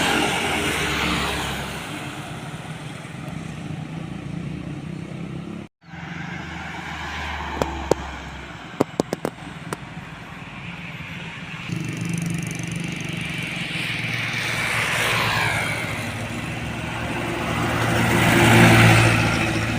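Road traffic with heavy vehicle engines running past. A short dropout about six seconds in, then a few sharp clicks, and a heavy engine growing louder toward the end as a vehicle comes close.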